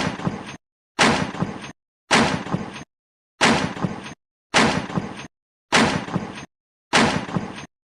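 A weapon impact sound effect played seven times over, about once a second: a sharp hit with a rough tail that dies away within a second, with dead silence between repeats.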